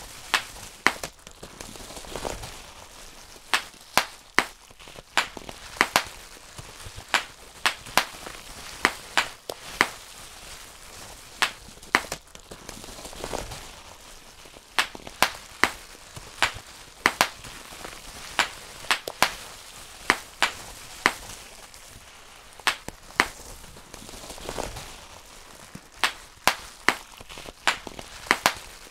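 Bubble wrap being popped by hand: sharp individual pops at an uneven pace, roughly one or two a second and often in quick pairs, over a soft crinkling of the plastic sheet.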